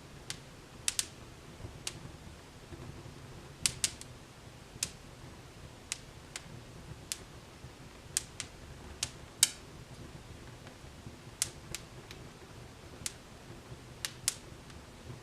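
Wood fire crackling in a fireplace: irregular sharp pops and snaps, one or two a second, over a low steady hiss of the burning.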